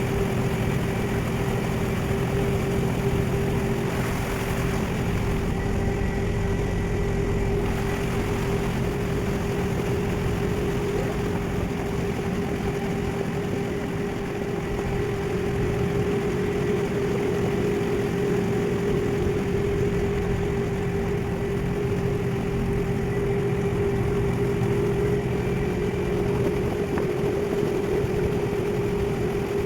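Ferry's engine running steadily with a constant low rumble and a steady droning hum, unchanging throughout.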